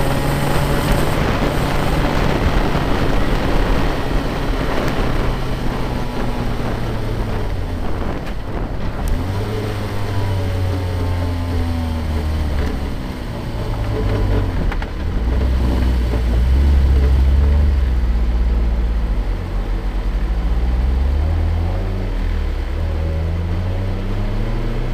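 Nissan Micra rally car's engine being driven hard, its revs rising and falling repeatedly through gear changes, with wind buffeting the microphone.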